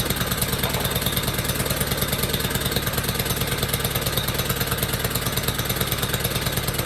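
Small engine of a homemade track sled idling steadily with an even, rapid beat, warming up after a choked cold start.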